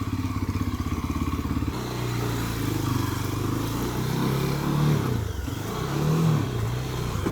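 Rieju motorcycle engine running under way, its pitch rising and dropping as the rider accelerates and shifts gears.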